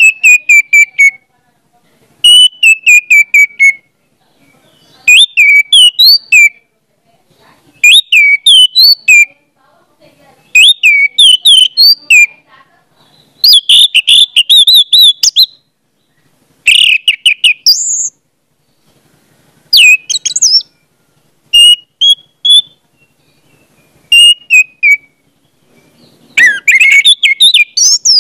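A bird chirping and whistling loudly in short phrases of quick notes, a new phrase every two to three seconds with brief silences between.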